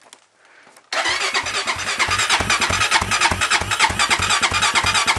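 Electric starter cranking the engine of a 2001 Honda ATV, starting about a second in with a steady whir and rapid even chugging, without the engine catching. This is a cold start after two months of sitting, the starter energised by touching two wires together.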